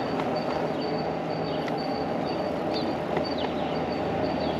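eAhora electric bike being ridden: steady wind and tyre rumble on a chest-worn microphone, with a faint high squeak repeating about twice a second.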